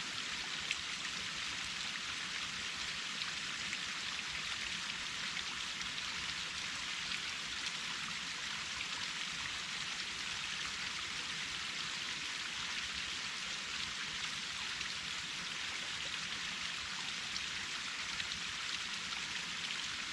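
Waterfall splashing and water rushing steadily, with small spatters of drops standing out now and then.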